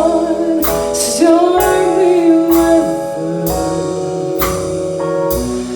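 Live band playing a slow, bluesy ballad: a held, gliding melody line over sustained chords, with sharp percussion hits about once a second.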